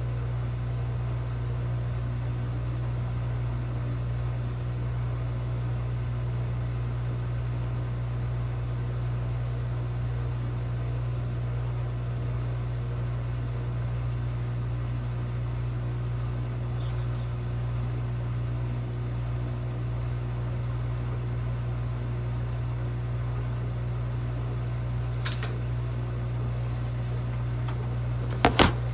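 Washing machine that won't spin, humming steadily at a low pitch. Two sharp clicks near the end, the second louder.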